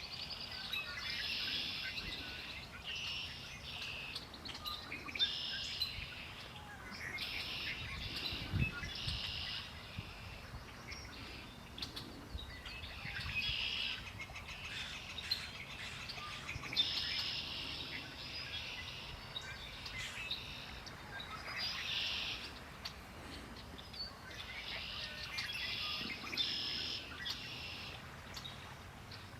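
Songbirds singing in short trilled phrases that repeat every second or two, over a faint steady low background rumble.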